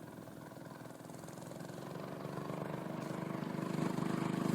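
Homemade minibike's 5.5-horsepower engine running as the bike approaches, growing steadily louder.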